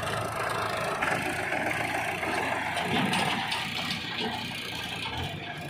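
Diesel engine running steadily at low revs.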